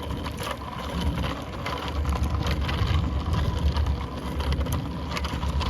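Wind noise on the microphone and tyre noise from a bicycle being ridden, with scattered light clicks and rattles; the low wind rumble grows stronger about two seconds in.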